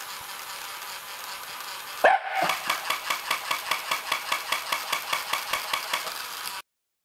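Small motorised toy dog running, its mechanism making an even rhythmic clicking at about four to five clicks a second after a sudden start about two seconds in, then cutting off abruptly near the end.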